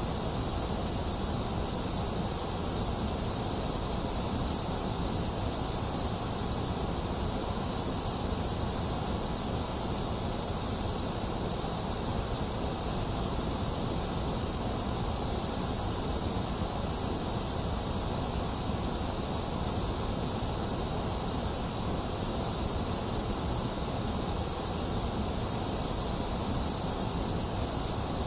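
Box fan running together with steady rain: an even, unbroken hiss with no thunder or other sudden sounds.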